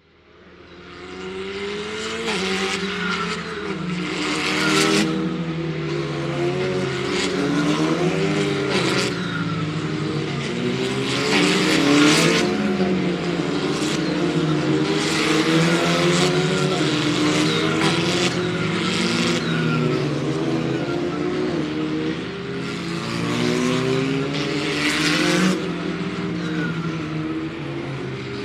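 Several racing cars' engines revving and shifting at once as a pack goes by on track, one car after another passing close, with some tyre noise. The sound fades in over the first second or two.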